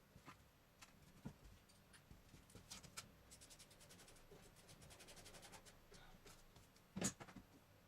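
Faint workshop handling noise: scattered clicks and taps of hand tools and metal parts, a run of quick, even ticks in the middle, and one louder knock near the end.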